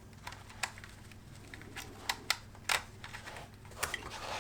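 Scattered small clicks and taps from handling a plastic model locomotive and its tiny chassis screws, a few sharper clicks about halfway through.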